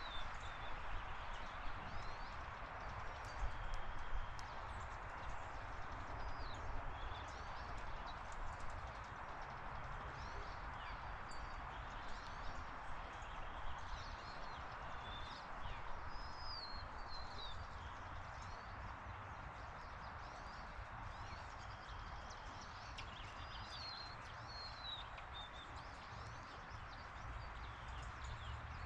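Small birds chirping in short, scattered calls over a steady outdoor hiss, with a few faint clicks about three to four seconds in.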